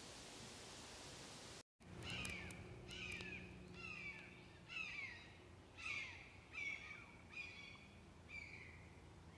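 A steady hiss, then after a brief dropout just under two seconds in, a bird in the canopy calls over and over: about eight short falling calls, roughly one a second, fading a little toward the end.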